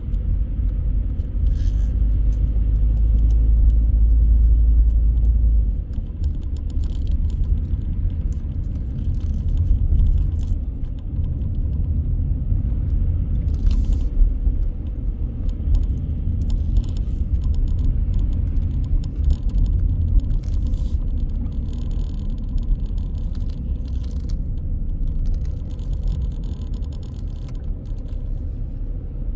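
A car driving through city streets: a steady low road and engine rumble, heavier for the first few seconds, with scattered light clicks and rattles.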